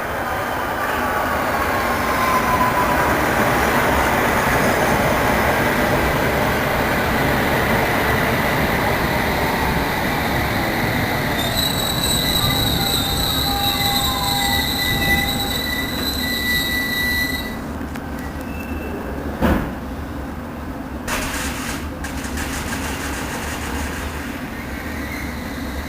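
A passenger train running through the station with a steady rumble. For several seconds around the middle there is a high-pitched, steady squeal from the wheels or brakes. Near the end come a sharp clunk and a few smaller knocks.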